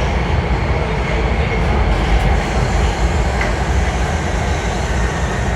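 Los Angeles Metro D Line subway train running, a steady low rumble from wheels and motors heard from on board.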